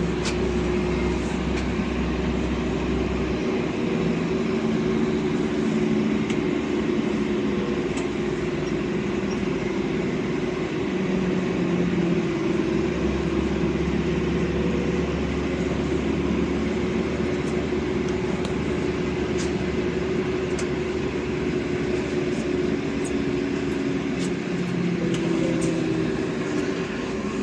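Steady running noise of a LiAZ 5292.65 city bus heard inside the cabin: an even engine and drivetrain hum whose tones shift slightly, with a deep rumble that fades out about three seconds in and returns around thirteen seconds, and scattered small rattles.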